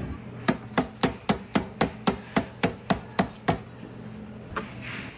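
A quick, even series of about a dozen sharp knocks, like a hard object striking wood, about four a second, with one more knock near the end.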